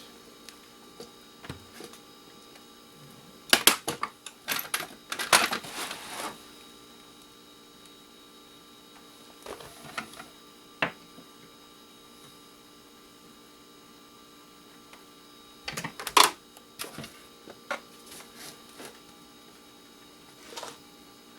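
Small metal tools and parts clicking and clattering as they are handled, in several short bursts a few seconds apart, over a faint steady hum.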